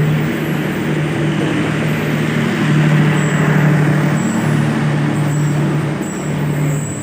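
A train passing close by: a steady low hum over a rushing rumble, loudest about halfway through.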